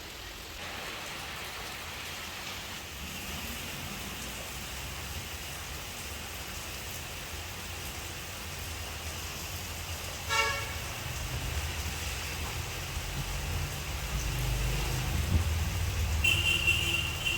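Steady hiss of rain-like background noise with a short vehicle horn toot about ten seconds in, then a low vehicle rumble building near the end with a high-pitched tone over it.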